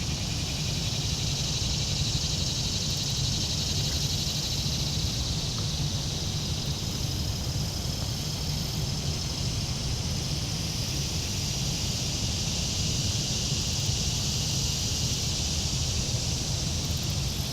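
Steady high-pitched outdoor insect chorus, a continuous fast-pulsing buzz, over a low steady rumble.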